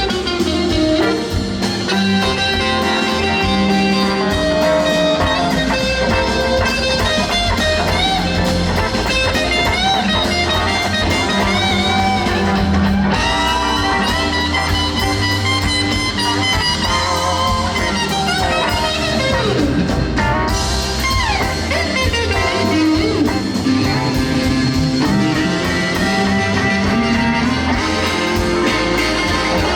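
Live blues band playing an instrumental passage: an electric guitar solo with notes that bend and glide in pitch, over bass and drums.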